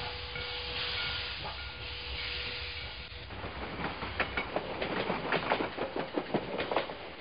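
Passing steam train: steam hissing, then from about halfway a quick, irregular run of sharp metallic clacks from the wheels on the rails.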